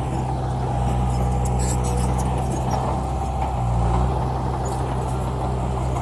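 Heavy diesel engine of a dump truck running steadily, its note shifting slightly about three and a half seconds in, with a few light high clicks and rattles over it.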